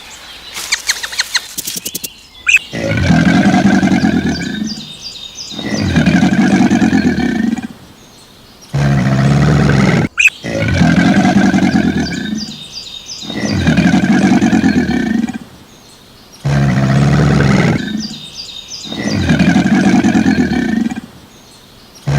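A large animal's loud, drawn-out pitched calls, each about two seconds long, repeated over and over with short pauses between them.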